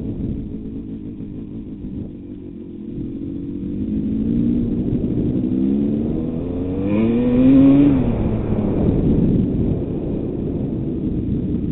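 Motocross bike engine revving under rumbling wind or mic noise, its pitch climbing to a loud peak about eight seconds in and then dropping away.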